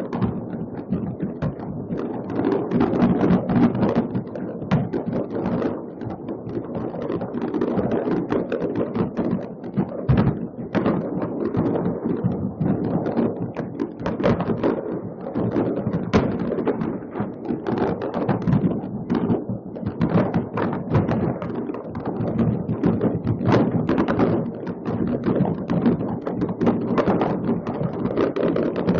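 Many fireworks going off at once in a continuous barrage of overlapping bangs and crackles, with no break.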